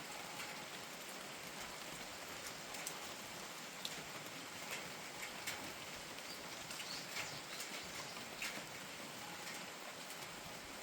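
Steady rain falling, a constant hiss with distinct single drips landing about once a second.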